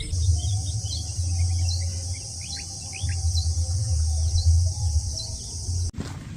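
Insects buzzing steadily, high-pitched, with birds chirping in short falling notes, over an uneven low rumble. The whole bed of sound cuts off abruptly near the end.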